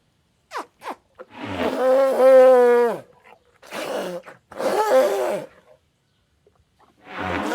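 Elephant calling repeatedly: two brief squeaks, then a long trumpeting call about a second in that falls in pitch at its end, followed by three shorter, harsher calls, the last near the end.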